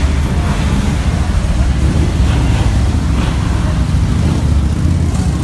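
Low, steady rumble of a group of motorcycle engines running as the riders move off together.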